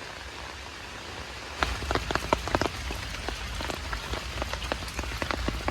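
Heavy rain falling steadily. From about one and a half seconds in, it is joined by many loud, irregular splats of large drops striking close by.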